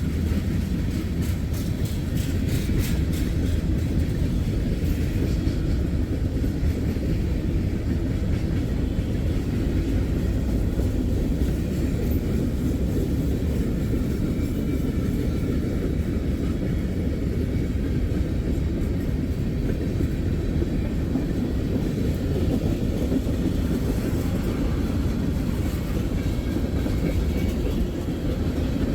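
Freight train cars rolling past: a steady rumble of steel wheels on the rail, with a run of sharp clicks a second or two in.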